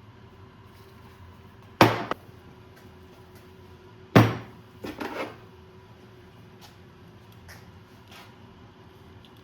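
Two sharp knocks about two and a half seconds apart, the second followed by a few lighter knocks, over a faint steady hum.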